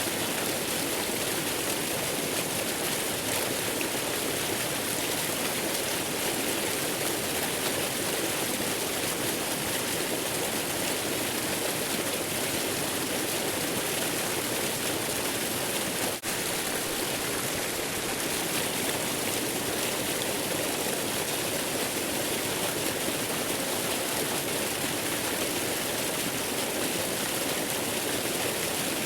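Waterfall rushing as a steady, even hiss of falling water, with a momentary dropout about halfway through.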